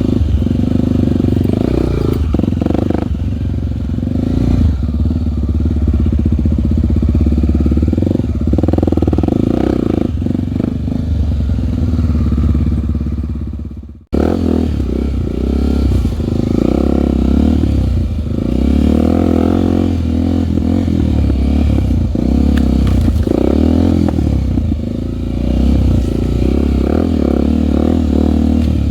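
A Honda single-cylinder four-stroke trail bike engine running as the bike is ridden, its pitch rising and falling with the throttle. The sound cuts out suddenly for a moment about halfway through, then resumes.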